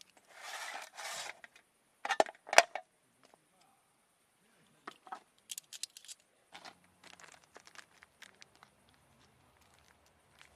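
Close handling noises: two short rasping tears, like packaging being torn, followed by a couple of sharp clicks and then scattered small knocks and clicks.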